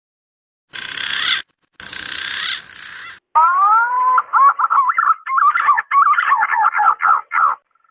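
Green pigeon (punai) calling: two harsh, raspy bursts, then a run of rapid whistled notes that glide and warble up and down, ending sharply. This is the male's call to a female, used as a lure call.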